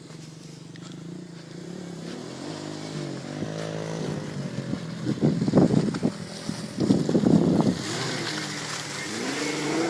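Volkswagen 4Motion all-wheel-drive car's engine pulling off road. The revs rise about three seconds in, with two loud rough stretches in the middle.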